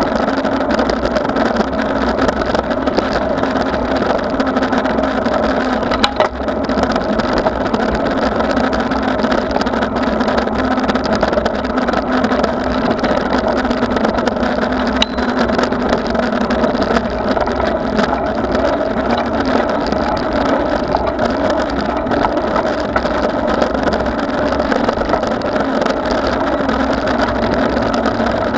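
Steady noise of a bicycle ride heard from the bike or rider: wind and rolling tyre noise with a constant low drone, broken only by a couple of faint clicks.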